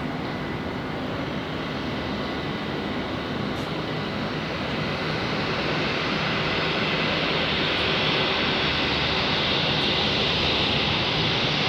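Jet airliner engines: a steady rushing noise with a thin high whine, growing gradually louder as the aircraft comes nearer.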